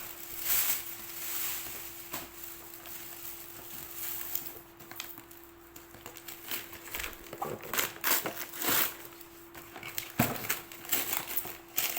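Gift packaging crinkling and rustling in irregular crackles as a present is unwrapped, over a faint steady hum.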